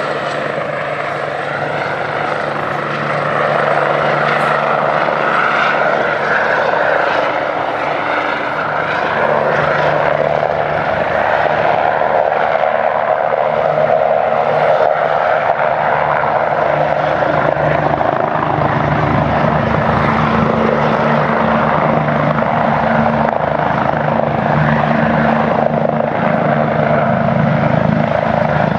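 Helicopter running steadily, with a low, even engine and rotor tone; it grows louder over the first dozen seconds or so.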